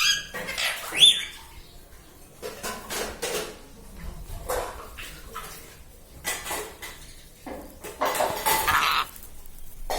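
A ringneck parrot's short whistled call about a second in, followed by scattered light clinks and knocks like small metal or ceramic objects tapping. A louder scraping, rustling stretch comes near the end.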